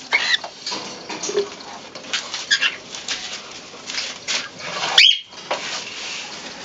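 Pigeons feeding on a grain mix: a busy stream of pecking taps with short, high, rising squeaks, and a sharp click about five seconds in.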